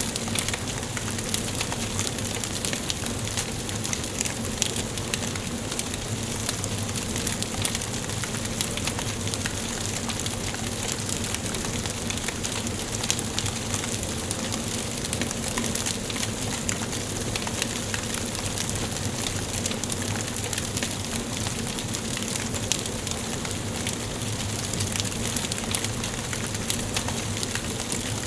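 Wood fire burning in a fireplace: a steady hiss with frequent small, irregular crackles and pops of burning wood.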